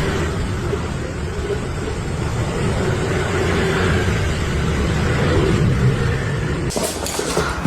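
Steady low rumble and hiss like a moving vehicle's running noise. Near the end it cuts off abruptly, and a few sharp clicks follow.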